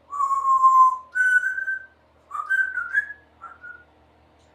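Congo African grey parrot whistling a short tune: a slightly falling note, a higher held note, then a quick rising run of notes and a last short note near the end.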